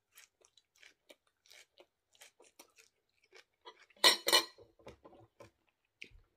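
Close-up chewing and wet mouth smacks of a person eating rice and kangkong (water spinach) by hand, with many small clicks. About four seconds in come two loud, sharp knocks in quick succession.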